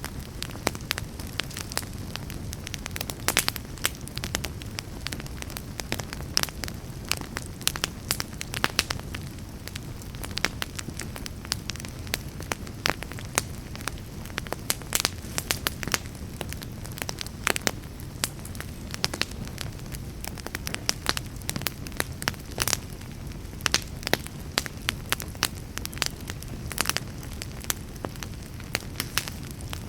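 Fireplace wood fire burning: a steady low rumble of the flames with frequent, irregular sharp crackles and pops of burning logs.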